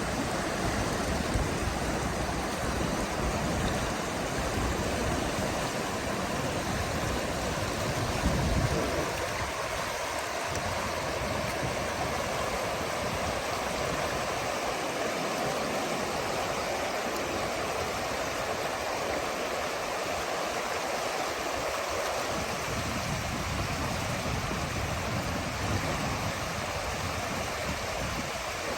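The Firehole River's water flowing steadily, a continuous even rush. A rough low rumble comes and goes over it until about nine seconds in, then dies down.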